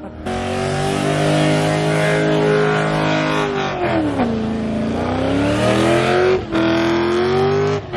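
A car engine held at high revs during a burnout, with tyre noise. The engine pitch sags about four seconds in, climbs back, and briefly lifts off twice near the end.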